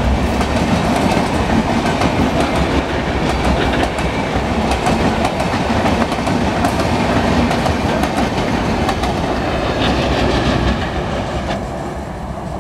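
LHB passenger coaches of an express train rolling past, wheels clattering on the rails. The noise fades near the end as the last coach goes by.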